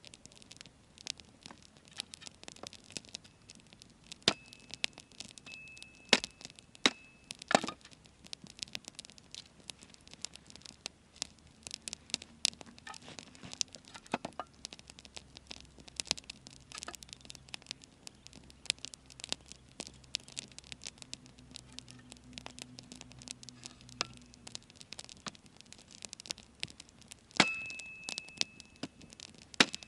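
Wood fire crackling: a dense, irregular run of sharp pops and snaps, a few of them loud. Twice a thin, steady high whistle holds for a few seconds.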